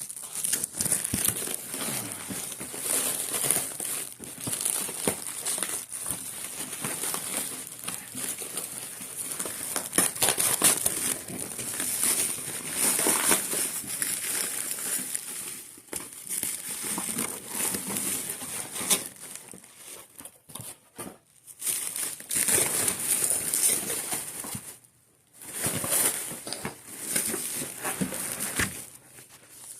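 Plastic wrapping and box packaging crinkling and rustling in irregular bursts as a boxed VCR/DVD player is worked out of its carton, with a couple of short pauses in the second half.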